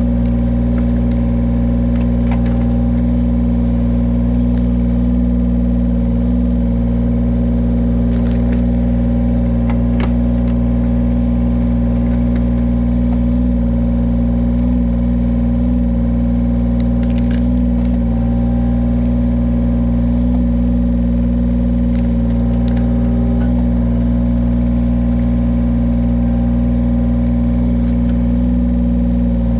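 The engine of a machine used for splitting firewood, running steadily at an even speed, with a few faint sharp cracks or clicks now and then.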